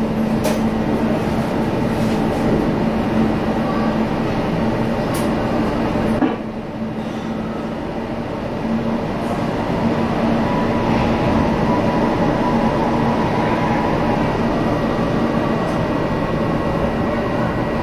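Class 420 S-Bahn electric multiple unit standing at a platform, its onboard equipment giving a steady hum and whir with a low drone, a faint high whine and a few light clicks. The noise drops suddenly about six seconds in, then builds back up.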